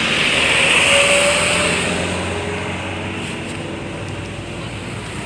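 A road vehicle passing close by, swelling to its loudest about a second in and then fading away.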